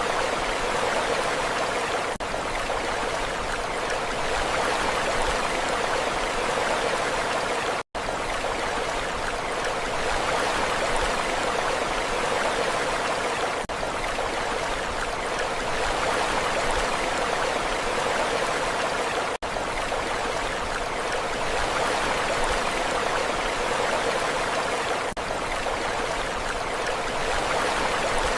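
Steady rushing water, an even hiss with no swell and fall of breaking waves. It is broken by a very brief gap about every six seconds, and the deepest gap is about eight seconds in.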